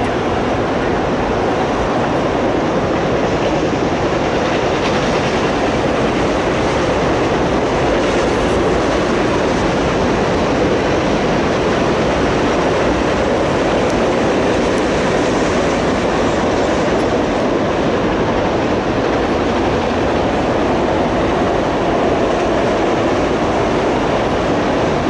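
Freight train of enclosed autorack cars rolling past, a steady noise of steel wheels on rail.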